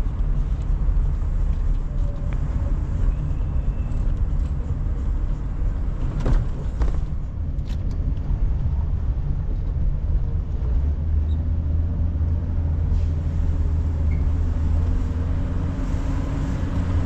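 A car driving, heard from inside the cabin: a steady low engine and road rumble, with two brief knocks about six and seven seconds in.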